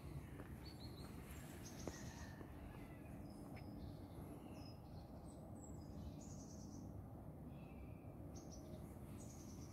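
Birds chirping faintly in short, high-pitched bursts every second or two over a low, steady background rumble, with a single small click about two seconds in.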